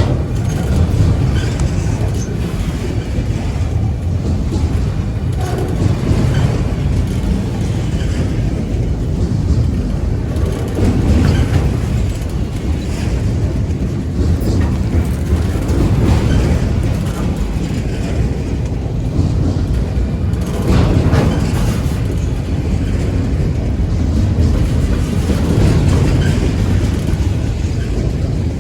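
Freight train's auto-rack cars rolling past, a steady low rumble with repeated clacking of the wheels.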